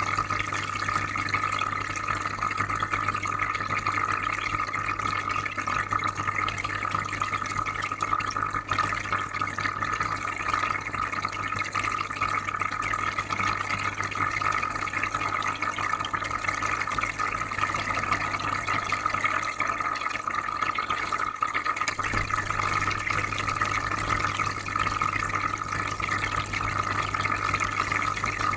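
Aquarium filter running: steady trickling, bubbling water over a low electric hum. The hum drops away for a couple of seconds about three-quarters of the way through, then cuts back in.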